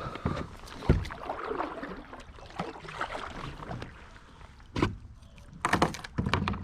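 Water splashing and sloshing around a kayak, with several sharp knocks against the hull, a cluster of them near the end.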